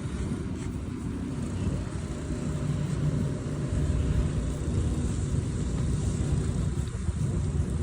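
Motocross bike engine running, a steady low drone that gets a little louder about three seconds in.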